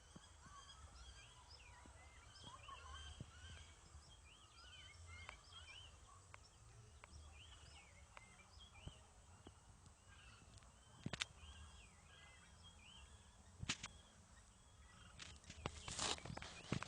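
Many birds chirping at once, a faint chorus of short, quick chirps. A couple of sharp knocks cut in part-way through, and a louder cluster of knocks comes near the end.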